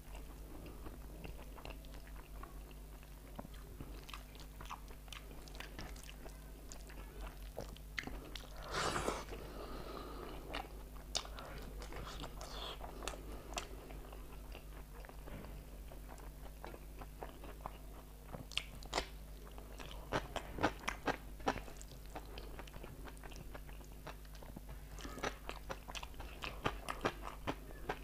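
Close-miked eating of rice and egg curry by hand: wet chewing with sharp sticky mouth clicks and smacks, which come in quick clusters near the end. About nine seconds in there is one louder, short rushing noise.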